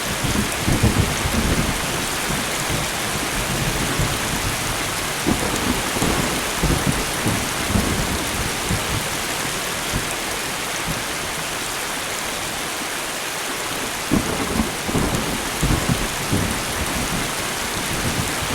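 Steady rain falling, with low rolls of thunder rumbling underneath, swelling about a second in, again midway, and once more near the end.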